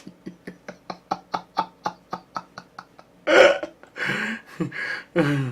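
A man's voice without words: a rapid run of short voiced breaths, about five a second, fading over a few seconds. Then a loud exclamation about three seconds in, and groaning that falls in pitch near the end.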